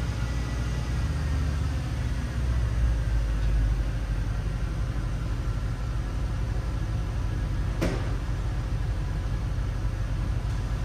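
2013 Porsche Panamera 4S V8 idling steadily after a cold start, swelling slightly a few seconds in. A single sharp click comes near the end.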